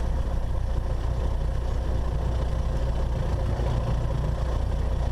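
Cessna 172's four-cylinder Lycoming engine and propeller running steadily at low power as the plane holds short of the runway, a constant low drone.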